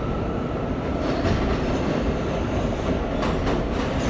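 Inside an R179 subway car: a steady rumble with scattered clicks and knocks. A faint high whine fades out within the first second.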